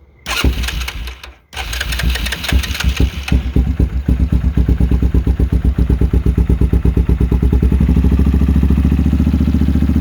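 2001 Yamaha Kodiak 400 ATV's single-cylinder four-stroke engine running with an even beat after a short noisy stretch near the start, settling into a steady idle. It is the engine that had been called seized, running freely.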